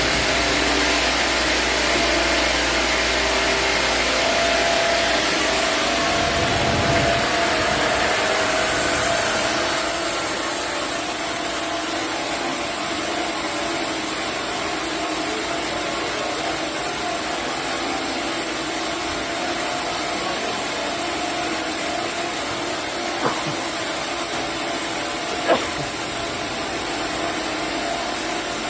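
Sawmill band saw running steadily, cutting a chinaberry log into boards. About a third of the way in the low rumble drops away and a thin high whine sets in; two faint ticks come near the end.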